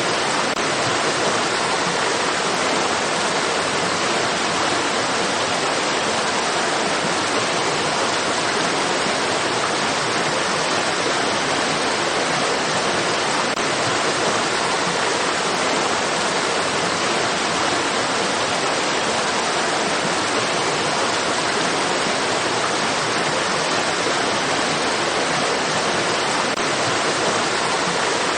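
Steady rushing water of a stream, an even, unbroken hiss with no distinct splashes.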